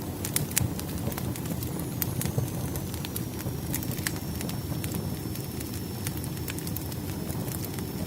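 Firewood burning: a steady low rumble of flames with sharp, irregular crackles and pops, and a faint high whistle through the middle.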